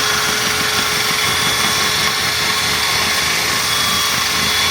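Small electric motor running steadily at constant speed with a steady whine, shaking a spray can of etch primer to mix it.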